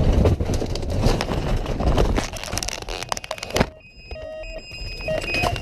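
Light skydiving aircraft crash-landing: a loud rumbling, rattling scrape with many knocks and bangs, which stops abruptly with a bang about three and a half seconds in. High electronic alarm beeps follow.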